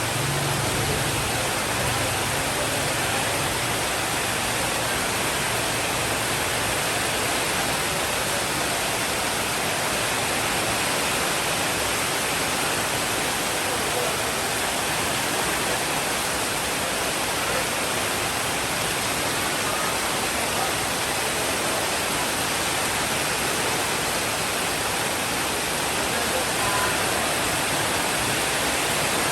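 Steady rain, an even hiss across all pitches, with a low rumble of distant thunder that fades over the first several seconds.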